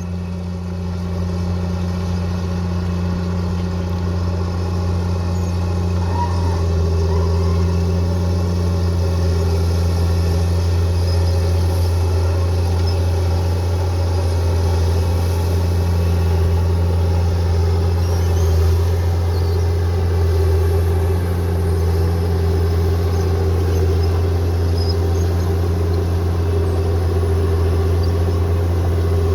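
Bulldozer's diesel engine running steadily with a deep, even drone, the note holding through the whole stretch.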